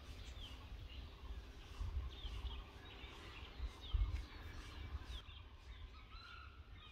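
Small birds chirping, many short quick downward notes scattered throughout, over a low rumble on the microphone that swells twice, about two and four seconds in.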